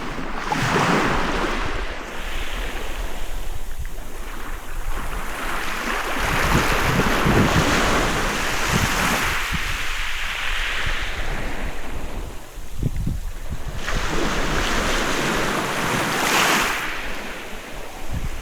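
Sea waves breaking and washing up a beach, the rush of surf swelling and fading in several surges. Wind buffets the microphone with a steady low rumble underneath.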